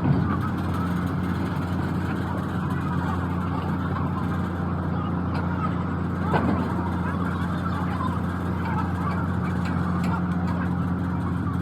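An engine running steadily with an even low hum, with one brief louder sound about six seconds in.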